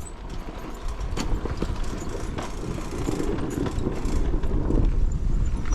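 Dirt bike engine running at low revs over rough ground, with a few sharp knocks and clatter from the bike on rocks; it grows somewhat louder in the second half.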